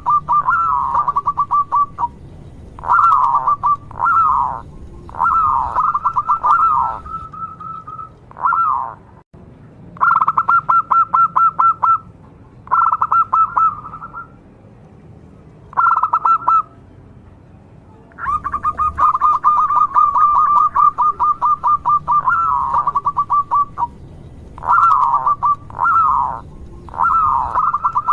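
Zebra dove (perkutut) calling over and over in bursts of rapid trilling coos, each a second or a few seconds long, with short pauses between.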